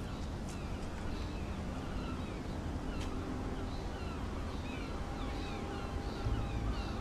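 Birds chirping repeatedly in short, quick calls over a steady low outdoor rumble.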